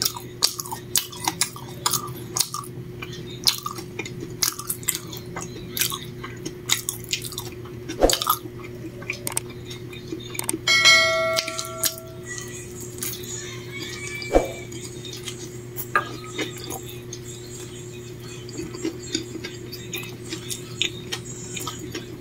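Close-up chewing and wet mouth clicks of a person eating a fried egg sandwich: many small irregular clicks and smacks. About eleven seconds in there is a brief ringing tone of several pitches at once, lasting about a second, over a steady low hum.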